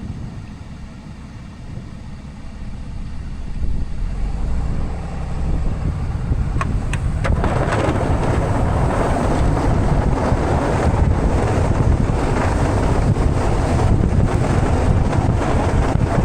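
Diesel plow truck running with a steady low rumble and wind on the microphone. From about seven seconds in, a loud, dense hiss joins it and stays.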